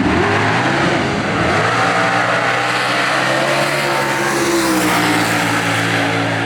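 Drag-race car engine running hard at high revs, its pitch climbing over a few seconds and then holding, with a harsh rasp over it. It cuts off abruptly near the end.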